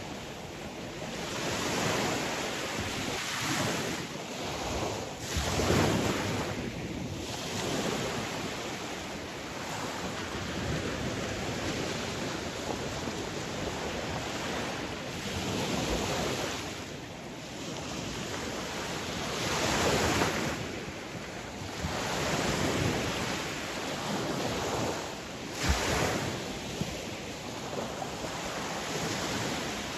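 Sea waves breaking and washing on the shore, swelling and fading every few seconds, with wind on the microphone. One wave near the end breaks with a sharper crash.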